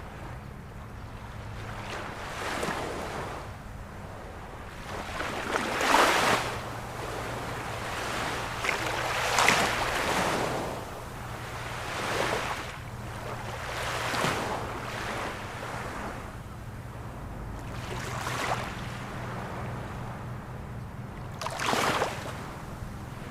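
Ocean waves breaking and washing ashore in repeated surges every few seconds, the biggest about six, nine and twenty-two seconds in.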